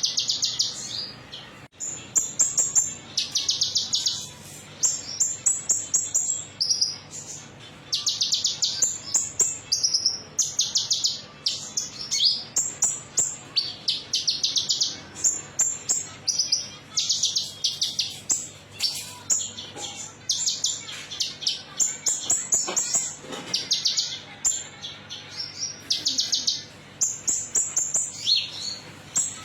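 Brown-throated sunbird (kolibri ninja) singing: sharp, metallic, high-pitched chirping phrases, each a rapid trill under a second long, repeated one after another with short gaps.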